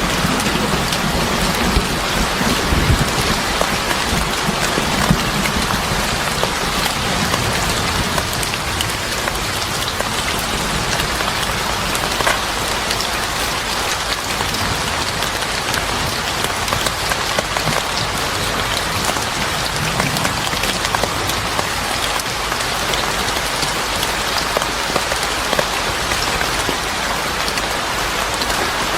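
Steady, heavy rain falling, with scattered sharp drop ticks. A low rumble of thunder dies away in the first couple of seconds.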